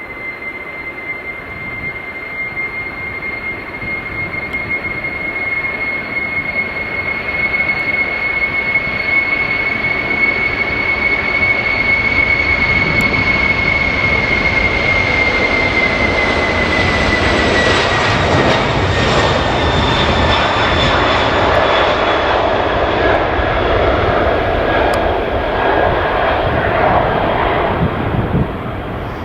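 Boeing 747 freighter's four jet engines at takeoff power. A high whine drops in pitch about halfway through as the jet passes, over a rumble that builds and then stays loud.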